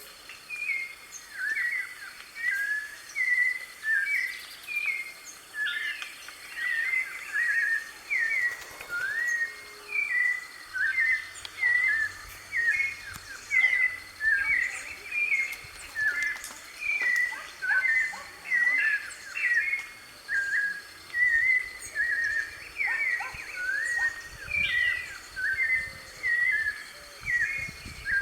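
White-necked thrush (sabiá-de-coleira) singing: an unbroken run of short whistled phrases, about one a second. A faint, steady high tone sits behind it.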